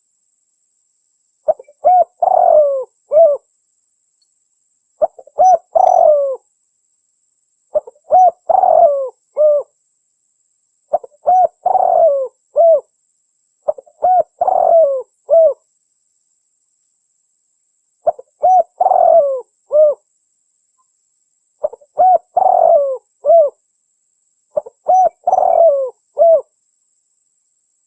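Spotted dove (tekukur) cooing, as played for a bird-trapping lure: a phrase of several short, throaty coos, repeated about every three seconds with clean silence between.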